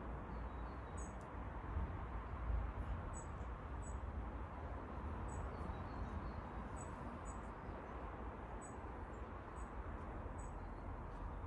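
High-pitched bird chirps, short double notes repeated every second or so, over a steady low background rumble.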